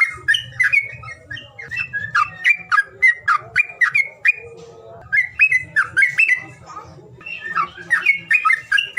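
A songbird calling in fast runs of sharp, down-slurred chattering notes, with short pauses about four and six and a half seconds in. It is a bird-call recording of the kind played to prompt reluctant cage birds to sing.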